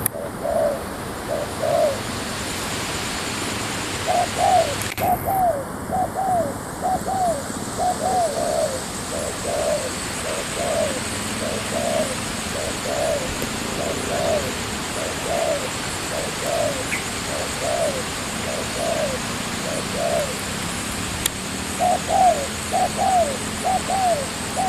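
Spotted doves cooing: long runs of short, rough coo notes repeated again and again, broken by a couple of pauses of a few seconds.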